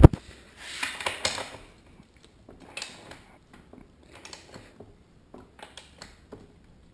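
Socket wrench ratcheting in short bursts of clicks while the rear axle nut is tightened, with one sharp metal click right at the start. The clicking grows fainter toward the end.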